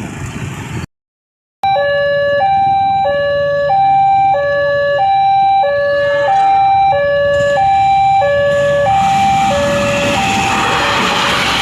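Electronic two-tone railway level-crossing alarm, alternating a high and a low tone about every two-thirds of a second, warning that a train is approaching. It starts after a short gap of dead silence, and from about nine seconds in a rising rush of noise builds up under it.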